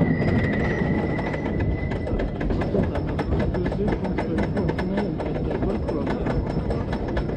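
CCI wooden roller coaster train running on its track: a steady low rumble with rapid clicking, several clicks a second.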